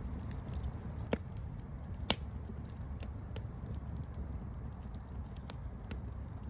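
Campfire burning with a steady low rumble and scattered crackles, two sharper pops about one and two seconds in.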